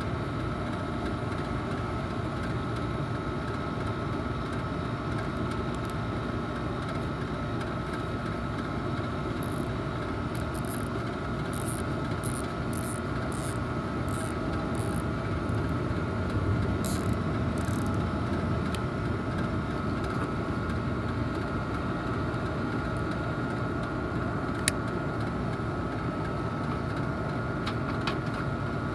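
Steady drone of a nearby rooftop package air-conditioning unit running, with a faint steady tone in it. Midway comes a quick run of about a dozen short high-pitched clicks and rasps from hand work on the unit's wiring, and one sharp click near the end.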